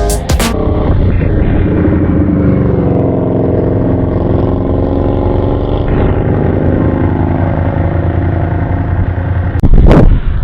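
Motorcycle engine running on the move, its pitch drifting up and down a little with speed. A loud rush of wind on the microphone comes near the end.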